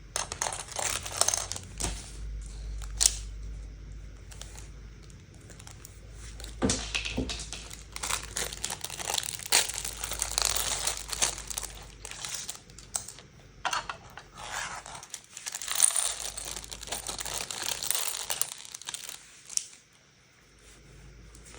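Small plastic LEGO pieces clicking and clattering as they are handled, with plastic bags crinkling and tearing in stretches. It goes quieter near the end.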